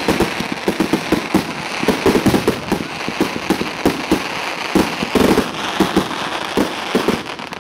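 Fireworks display finale: aerial shells and salutes bursting in a continuous rapid barrage, several loud bangs a second over a constant crackle.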